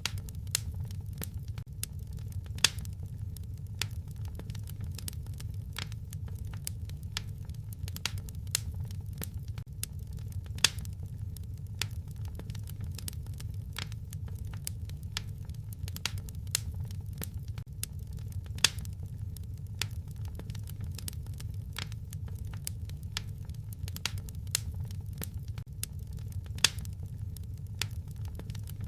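Wood fire crackling in a fireplace: a steady low rumble under frequent sharp pops and snaps, with a louder pop about every eight seconds.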